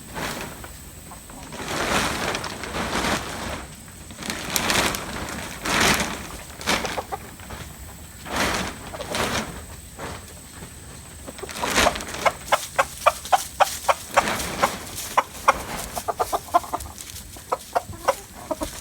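Chickens clucking, with bursts of rustling from large plastic vapor-lining sheet being unfolded and pulled in the first half, and a quick run of short sharp sounds in the second half.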